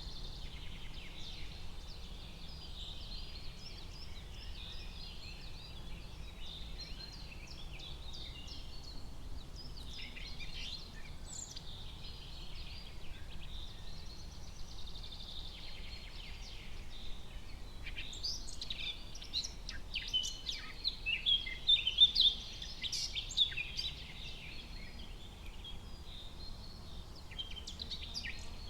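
Forest ambience with many songbirds chirping and trilling over a faint steady background hiss, the calls growing busiest and loudest a little past the middle.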